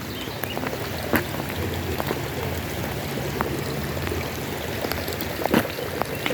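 Water splashing and sloshing with scattered sharp splashes, over a low steady hum.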